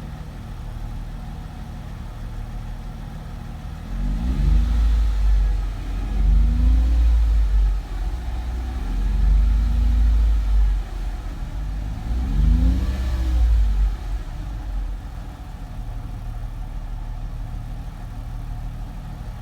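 2004 Mercedes SLK 320's V6 idling, then revved four times between about four and fourteen seconds in, each rev rising and falling in pitch before it settles back to idle. The owner hears a whine under it that he traces to the torque converter of a transmission that slips and won't drive.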